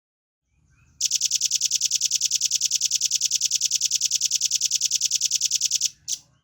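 Velvet-fronted nuthatch singing a fast, even trill of about ten notes a second for about five seconds, followed by one short note.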